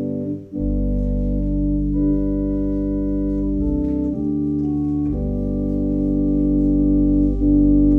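Organ playing slow, sustained chords over a deep held bass, the chords changing every second or so, with a short break about half a second in.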